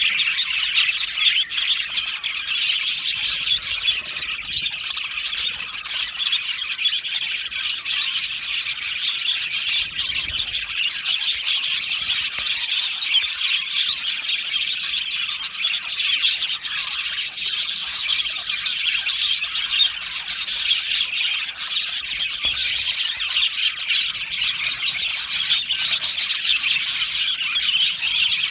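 A colony of budgerigars chattering and chirping together, a dense, continuous mass of high warbles and squeaks from many birds at once.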